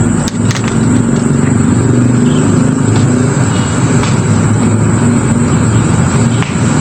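A motor runs steadily with a low, even drone, along with a thin, constant high-pitched tone.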